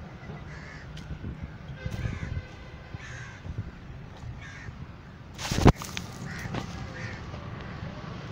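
Birds calling repeatedly in short calls. A brief loud rustle cuts in about five and a half seconds in.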